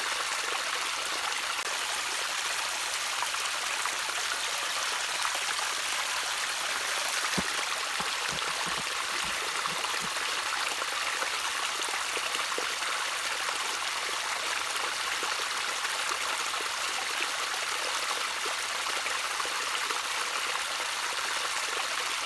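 A small stream of water trickling steadily. A few louder low plops come in a cluster around the middle.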